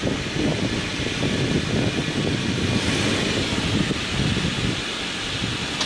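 Subaru's engine running as the car is driven slowly forward and up onto plastic drive-on ramps for an oil change.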